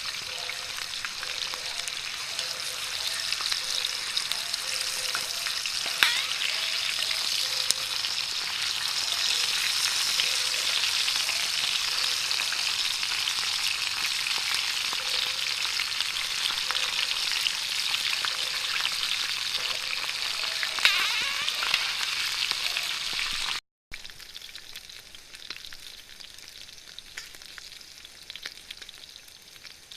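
Food sizzling and frying in a hot pan, a dense steady crackling hiss with a few sharp clicks, likely from stirring. It cuts off abruptly about three-quarters of the way through, leaving only a much fainter steady hiss.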